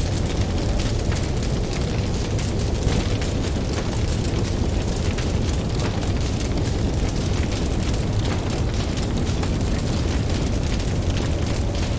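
Campfire crackling with frequent small pops over a steady low rumble of ocean waves.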